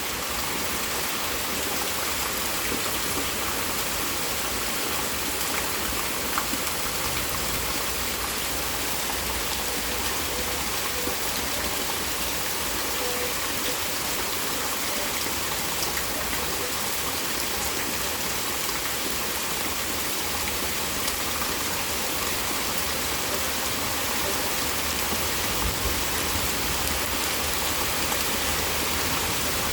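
Heavy rain falling steadily, a dense even hiss of drops with occasional louder ticks.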